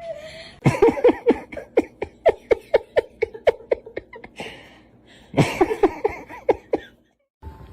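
Hearty laughter in a fast run of short, repeated ha-ha bursts, about four or five a second. It comes in two bouts with a short pause between them.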